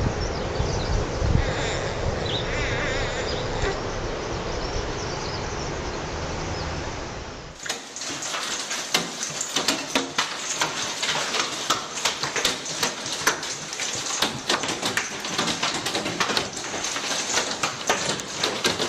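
A steady low rushing noise, then, after an abrupt cut about seven and a half seconds in, hailstones clattering in dense, irregular sharp hits.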